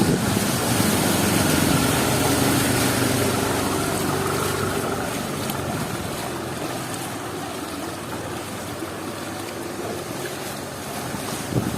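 A motor vehicle engine hums past and fades away over about the first half, over a steady hiss of heavy rain and water on the street.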